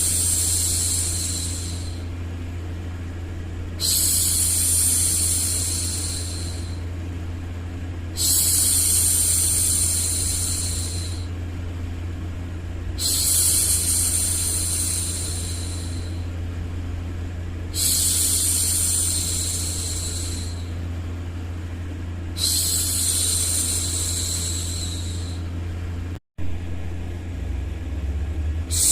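A woman hushing 'shhh' to soothe a baby, each hush lasting about three seconds and repeating about every four and a half seconds, over a steady low white-noise rumble. The sound cuts out completely for a moment a little before the end.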